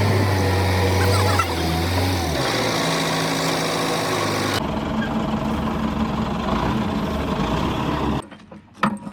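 A heavy engine running at a steady speed, its sound changing abruptly twice at edits. Near the end it gives way to a run of sharp metallic clicks.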